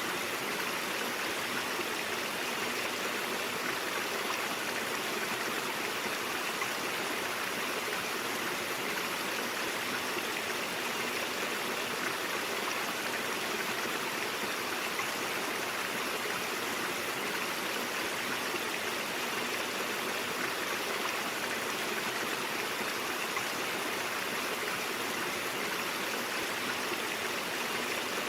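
Stream water flowing and splashing over rocks, a steady, even rush with no changes.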